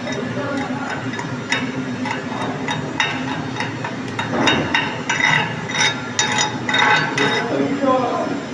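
Hammer knocking on steel in irregular strikes, thickest in the second half, over a steady hum.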